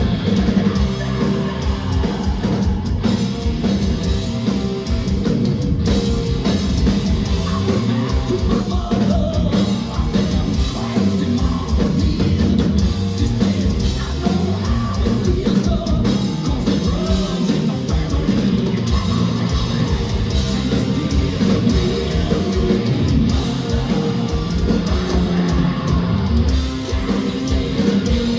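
Live heavy metal band playing loudly, with distorted electric guitars, a pounding drum kit and a singing voice.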